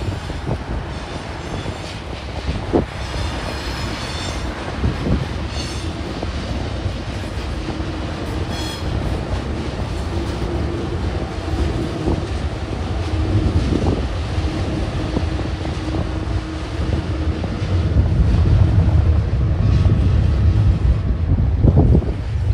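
Two TasRail TR-class diesel-electric locomotives hauling hopper wagons, their engines running with a steady low rumble and hum that grows louder as they pass close by. Brief high-pitched wheel squeals come several times in the first nine seconds.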